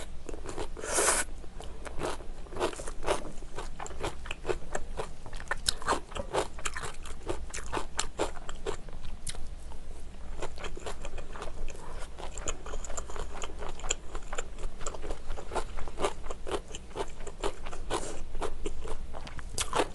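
A person chewing a mouthful of food close to the microphone: a dense, irregular run of quick wet clicks and smacks.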